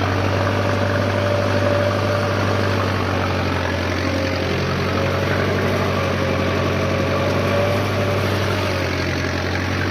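Mahindra Arjun Novo 605 tractor's diesel engine running steadily at a constant speed, with a thin high whine held over the engine note.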